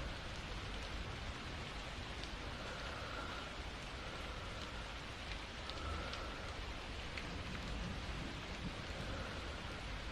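Steady rain: an even hiss with occasional single drops ticking.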